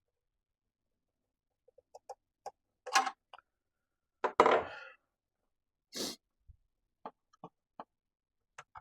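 Scattered clicks and knocks of tools and parts being handled during a miter saw dust chute install. The loudest is a sharp knock with a short ringing tail about halfway through, followed by a brief scrape and a few light ticks.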